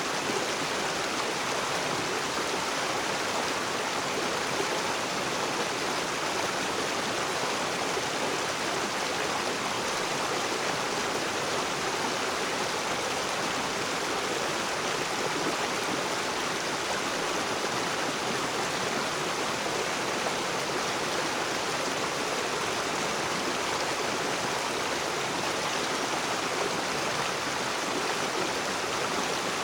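River water rushing over rocks, a steady, even rush with no pauses or changes.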